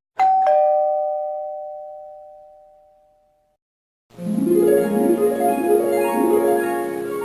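A two-note 'ding-dong' doorbell chime, a higher note then a lower one, ringing out and fading over about three seconds. About four seconds in, a plucked, harp-like run of music starts and keeps going.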